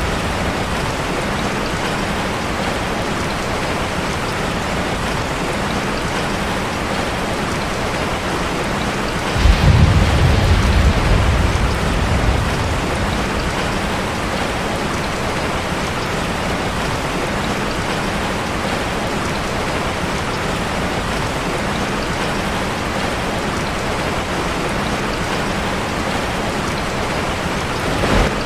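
Steady rain drumming on a metal roof. A low rumble of thunder comes in suddenly about nine and a half seconds in and dies away about three seconds later.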